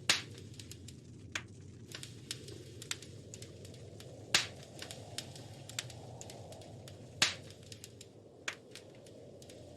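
Wood fire crackling: a steady low rush of the burning fire with irregular sharp pops and snaps, three of them loud, near the start, about four and a half seconds in, and about seven seconds in.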